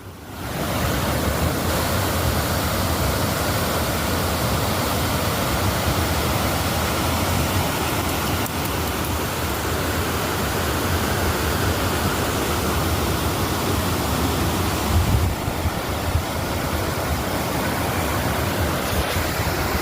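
Thawed waterfall pouring, a steady even rush of falling water with a deep rumble underneath.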